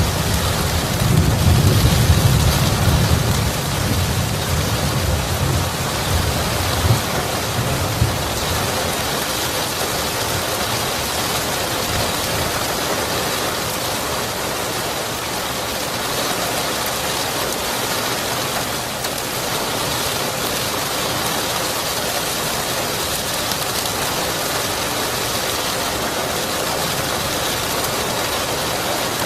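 Steady rain falling, with a low rumble of thunder in the first few seconds that dies away.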